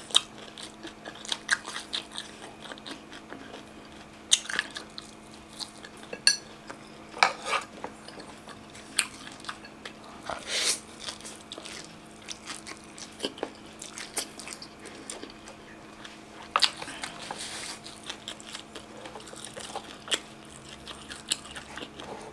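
Close-miked eating sounds: a person biting and chewing grilled chicken-tail skewers and instant noodles, with frequent sharp crunches, clicks and wet mouth noises, over a faint steady hum.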